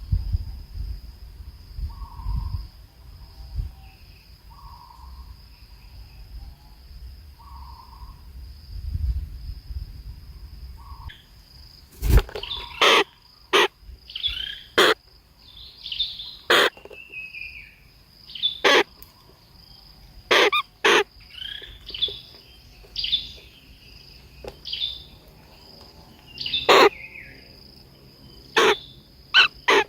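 Birds calling: soft, short low notes repeated about every second and a half, then from about twelve seconds in a string of sharp clicks mixed with quick high chirps. A faint steady high tone runs underneath.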